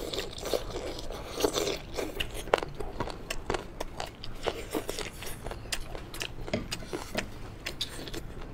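Close-up mouth sounds of chewing and biting spicy boneless chicken feet: many quick, wet clicks and smacks running on without a break.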